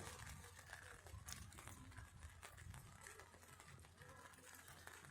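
Near silence: a faint low rumble with scattered faint ticks.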